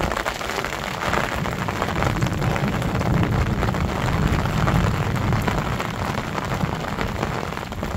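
Rain falling: a dense, steady hiss with many close drops striking, over a low rumble.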